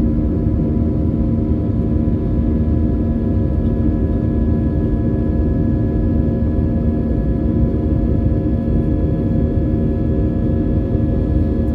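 Airbus A320's IAE V2500 turbofan engines heard from inside the passenger cabin: a steady drone made of several held tones over a low rumble, without change, typical of the engines at high thrust in the initial climb.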